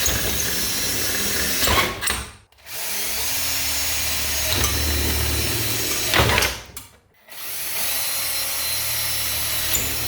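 Power drill running steadily as it bores screw holes for a reinforcement bracket, letting off twice, about two and a half and seven seconds in, and starting again each time.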